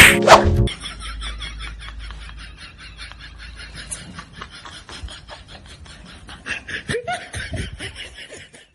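A couple of loud knocks right at the start, then a person laughing quietly, a breathy snicker in rapid little bursts.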